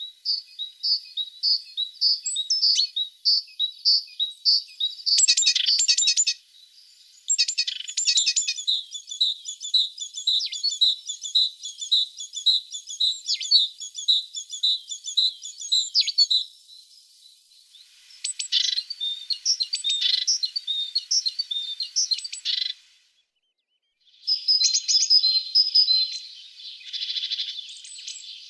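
A tit singing: bouts of quick, evenly repeated high notes, broken by short pauses, with denser bursts of notes about five seconds in and again after about eighteen seconds.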